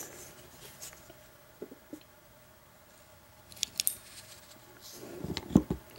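Small metallic clicks and taps as the Abus 83 padlock's cylinder is taken apart with a plug follower. A few sharper clicks come about three and a half seconds in, and a quick run of louder knocks comes near the end.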